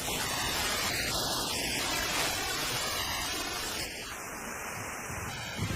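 Steady rushing noise with no distinct events, easing slightly about four seconds in.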